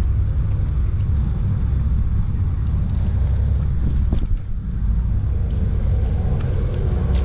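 Steady low rumble of wind buffeting a chest-mounted action camera's microphone on a moving bicycle, mixed with road noise, easing briefly about four seconds in.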